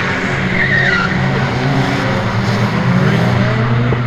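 Drift car sliding on track: engine held high in the revs with its pitch shifting, and tyres squealing in short bursts in the first second.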